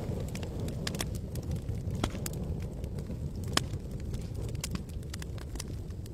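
Campfire crackling, with scattered sharp pops and snaps over a low steady rumble; one louder pop about three and a half seconds in.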